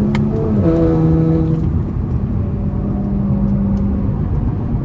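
Car engine droning over road and wind noise while cruising on a highway. Its pitch drops once about half a second in, then the drone fades into the steady road rumble.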